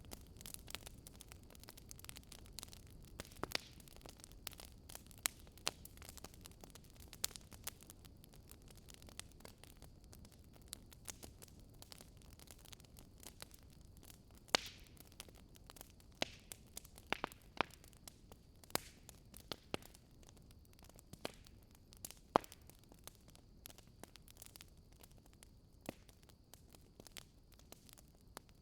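Fireplace crackling quietly, with irregular sharp pops and snaps over a low, soft rumble of burning.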